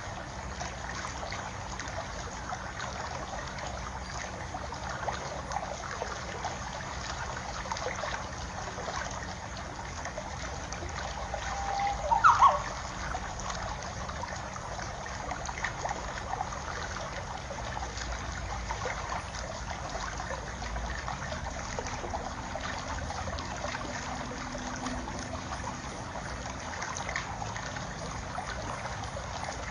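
Water trickling steadily. About twelve seconds in, a brief louder sound with a quick rise in pitch stands out over it.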